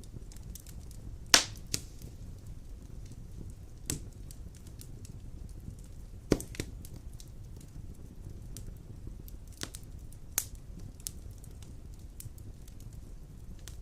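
Wood fire burning in a fireplace: a steady low rumble with scattered sharp crackles and pops, the loudest pops about a second and a half in and again about six seconds in.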